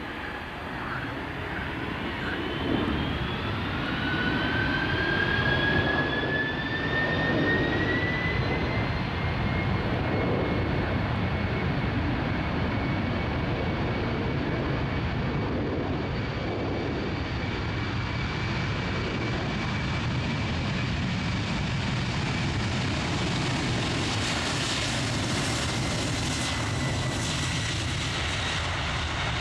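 Boeing 747-400 jet engines spooling up to takeoff thrust: a whine rises in pitch and the roar grows louder over the first several seconds, then holds as a steady, loud jet roar.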